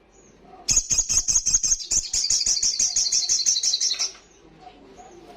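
Sogon (sogok ontong, little spiderhunter) calling in a fast, loud run of sharp, high notes, about eight a second, lasting about three seconds before stopping.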